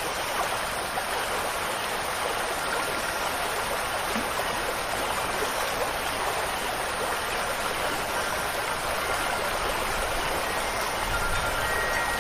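Steady rushing water of a stream. Faint ringing wind chime tones come in near the end.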